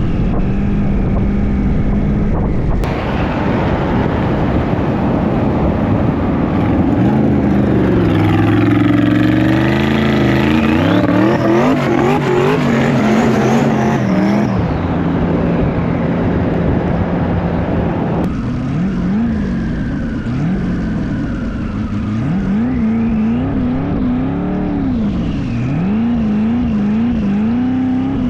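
Twin-turbo LS V8 of an LS-swapped BMW E36 drag car revving hard up and down while drifting, its pitch rising and falling over and over. The sound changes abruptly about three seconds in and again past eighteen seconds, as if between separate clips.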